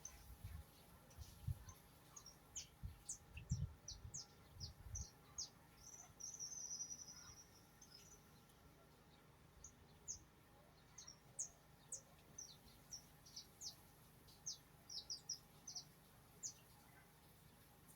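Small birds chirping: many short, high chirps scattered throughout, with a brief buzzy trill about six seconds in. A few dull low thumps in the first five seconds.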